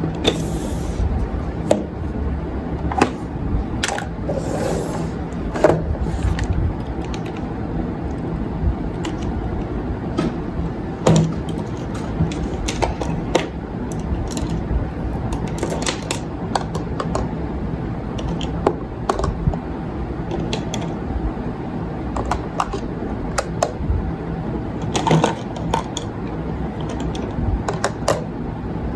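Handling noises from unboxing and arranging a makeup organizer: irregular light clicks and knocks as items are picked up and set down, over a steady low rumble.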